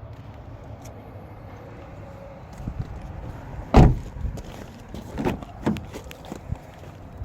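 A car door shut with a single heavy thud about halfway through, followed by a few lighter knocks and clicks.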